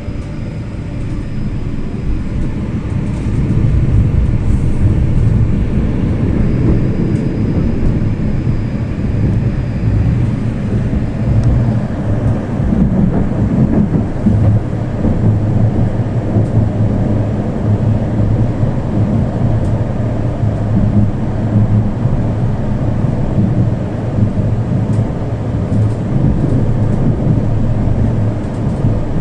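Tram running along the line, heard from inside the passenger car: a steady low rumble of wheels on rails and running gear that grows louder about three seconds in.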